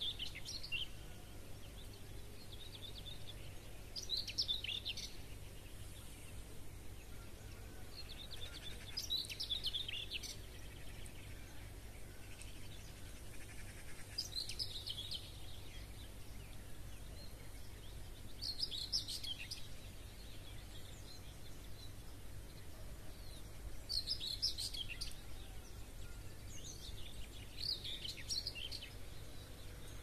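A songbird repeating a short, high twittering song phrase about every five seconds, over a steady low background rumble.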